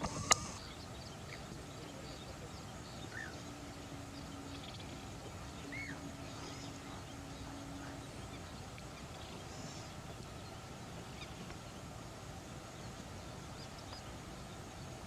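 Faint, scattered short bird calls from a wetland over a steady background hush, with one sharp knock about a third of a second in and a low steady hum partway through.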